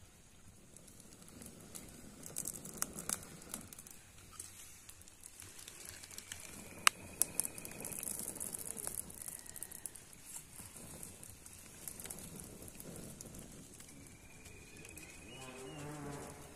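A small fire of straw and thin twigs catching, crackling with scattered sharp pops and snaps, the loudest about halfway through.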